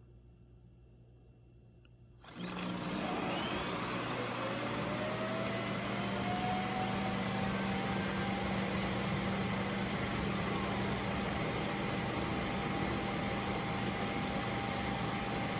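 A vacuum suction motor switches on abruptly about two seconds in. Its whine rises in pitch as it spins up, then it runs loudly and steadily with a rushing of air.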